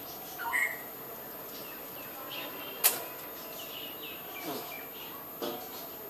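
A few short, high bird chirps scattered over several seconds, one rising in pitch about half a second in. A single sharp click about three seconds in is the loudest sound.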